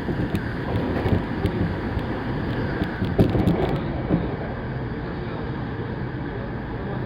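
Saikyo Line electric commuter train running at speed, heard from inside the car: a steady rumble of wheels on rail. A few short knocks come in the first four seconds, after which the running is smoother.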